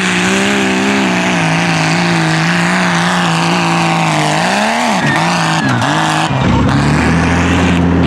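Tough-truck engine revving hard on an off-road course, its pitch wavering and dropping sharply a few times around five seconds in. About six seconds in the sound switches to a lower, steadier engine drone.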